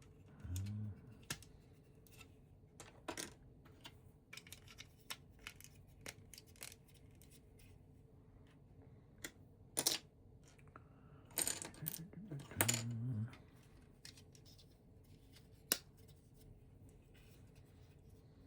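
Small plastic LEGO bricks clicking and clattering as pieces are handled and pressed together, in scattered sharp clicks with a louder cluster about ten to thirteen seconds in.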